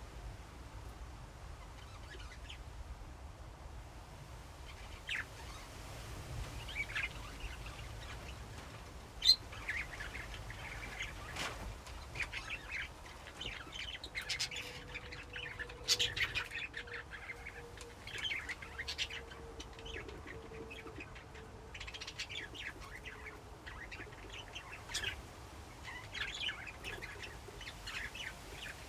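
A colony of budgerigars chirping and chattering, with many short warbling calls that grow busier from about a third of the way in. A single sharp click about nine seconds in is the loudest sound.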